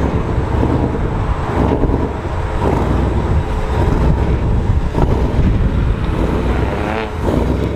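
Twin-turbo Ford Mustang Shelby GT500's V8 running with a steady low rumble, with wind noise on the microphone.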